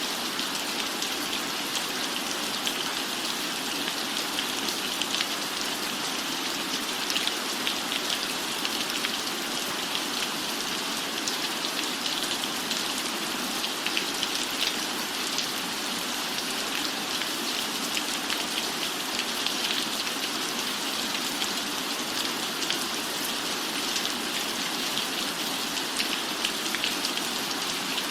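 Steady rain falling: a dense, even patter of raindrops with frequent small, sharp drop hits.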